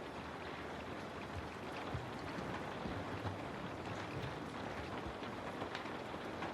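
Steady rain falling, with individual drops now and then striking close by.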